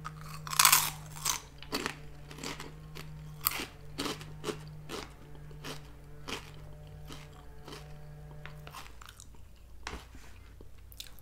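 A person bites into a crunchy potato-and-vegetable straw snack (Garden Veggie Straws) and chews it. A loud crunch comes about half a second in, followed by many quieter, irregular crunches as it is chewed.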